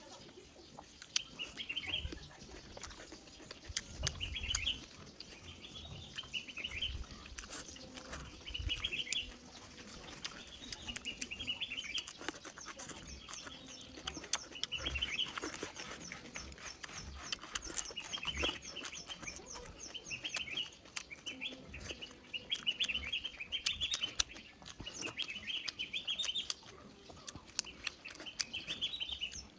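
Small birds chirping again and again, a short call every second or two, with a fast high trill joining for several seconds in the middle. Under them are soft clicks and thuds of chewing and chopsticks.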